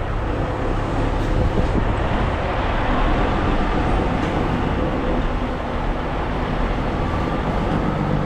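Semi truck's diesel engine running steadily, with a constant rumble.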